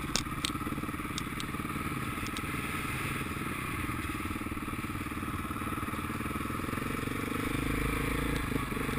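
Motocross motorcycle engine running steadily, with a few sharp clicks in the first half second. It grows a little louder and deeper near the end.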